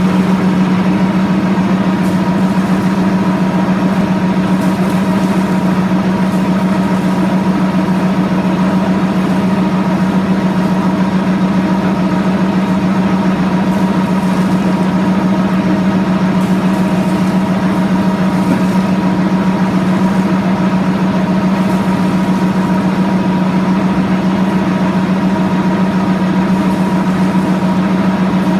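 An engine running steadily at constant speed, a loud unchanging hum with higher tones above it over a rushing noise, at a water well being flushed or test-pumped.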